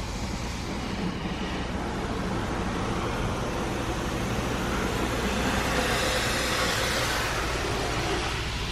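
Belanger Saber automatic car wash equipment running: a steady rushing noise over a low hum, swelling from about three seconds in and easing off near the end.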